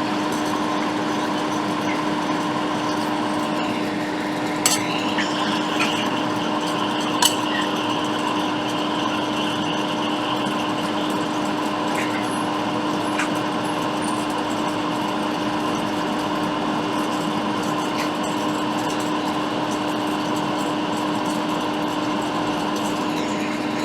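Hot air rework station blowing steadily while small components are desoldered from a laptop logic board, a constant whir with a low hum. A few light clicks, likely tweezers on the board, come about five to seven seconds in.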